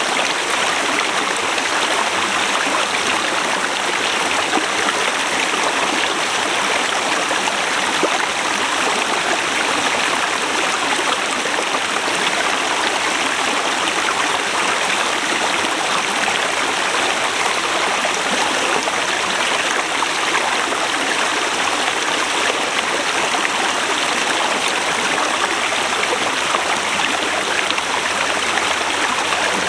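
Forest river flowing over rocks: a steady, even rush of running water.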